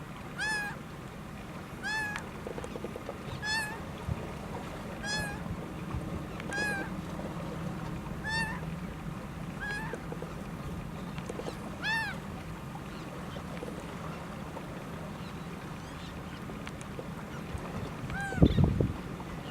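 Laughing gull calling over and over, one short call about every second and a half, then a pause and one more call near the end. A brief, loud low thump follows right after the last call.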